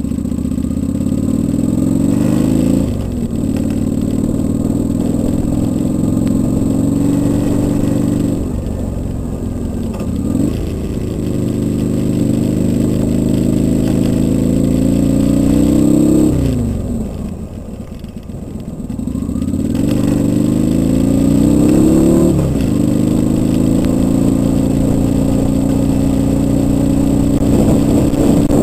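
Kawasaki Vulcan 800 V-twin motorcycle engine accelerating through the gears: the pitch climbs in each gear and drops back at each of about four upshifts. A little past halfway the throttle eases off for a couple of seconds, with the pitch falling, before it pulls again.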